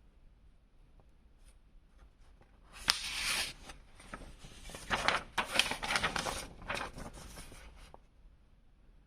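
Toy packaging being handled: rustling, scraping and crinkling for about five seconds, with a few sharp clicks, starting about three seconds in.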